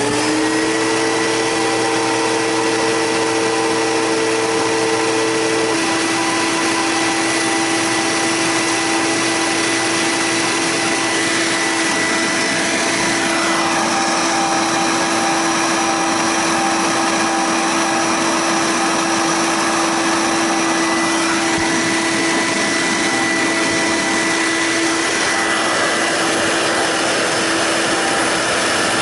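Electrolux canister vacuum cleaner running steadily at full speed with a high motor whine. One of its lower tones drops away about six seconds in.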